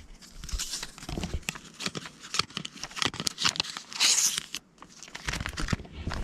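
Paper task cards being handled and laid out by hand, with crinkling, rustling and small taps, and a louder tearing rustle about four seconds in.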